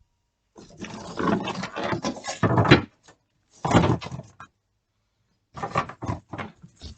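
Rustling and knocks of gear being handled and packed into a pickup's truck-bed storage compartment, in three bursts.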